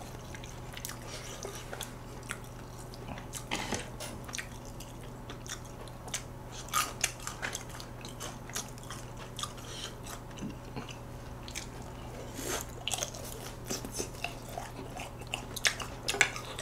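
Faint chewing and biting of food, with scattered small clicks of chopsticks against a plate, over a low steady hum.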